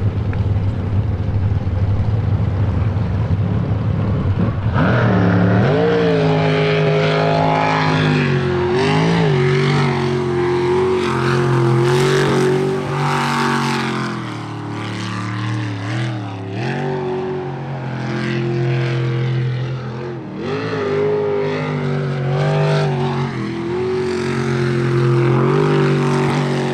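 An Unlimited-class jet sprint boat's V8 engine runs low and steady, then about five seconds in opens up hard. Its pitch then climbs and dips again and again as the throttle is worked through the course's turns.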